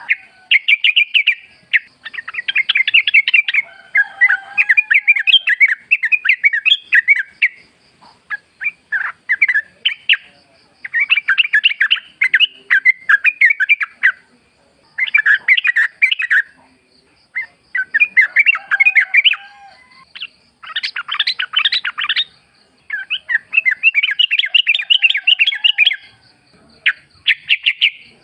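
Yellow-vented bulbuls (trucukan) singing in the wild: repeated bursts of fast, bubbling chattering notes, each a second or two long, with short pauses between.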